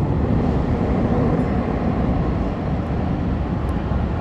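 Tokyo Metro Fukutoshin Line train running, a steady low rumble of wheels on rail and traction motors.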